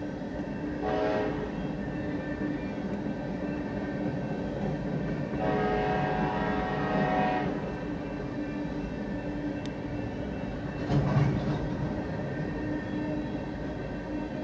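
Coal hopper cars of a freight train rolling past at a grade crossing: a steady rumble and wheel clatter, with a short pitched squeal or tone about a second in, a longer one around the middle, and a brief one a little later.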